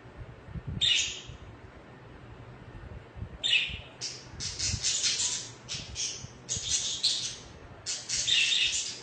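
Budgerigars chirping and chattering in short, high bursts: one brief call about a second in, then an almost unbroken run of chatter from about three and a half seconds on.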